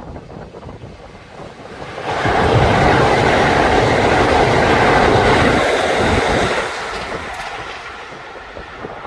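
Kintetsu Urban Liner limited-express electric train passing close at speed, its wheels rushing and clacking over the rail joints. The sound builds sharply about two seconds in, stays loud for about four seconds, then falls away.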